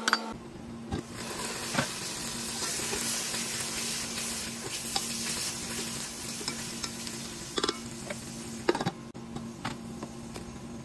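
Sliced onions and green and red chillies sizzling as they fry in hot oil in a non-stick pot, stirred with a spatula that scrapes and knocks against the pot a few times. A faint steady hum runs underneath.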